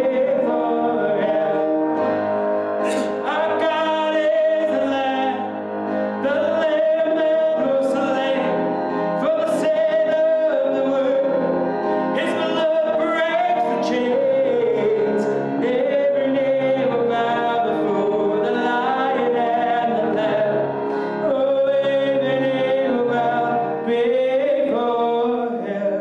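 Live worship music: a band playing with a sung melody of long, gliding held notes.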